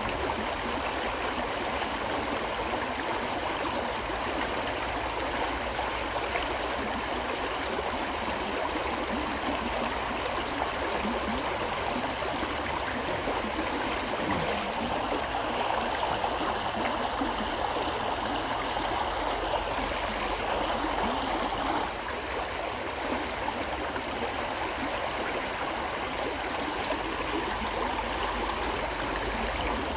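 A gentle river flowing: a steady rush of running water, with a slight drop in level about two-thirds of the way through.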